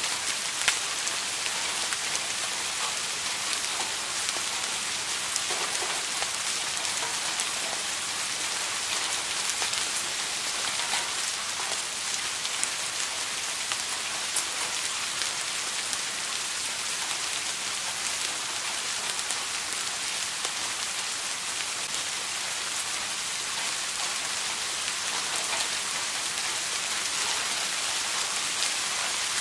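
Steady rain falling on a surface: an even hiss with individual drops ticking through it.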